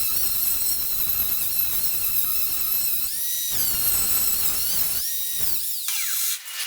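Angle grinder motor running with a high whine and a rough hiss. The pitch rises briefly twice, and the whine glides down near the end.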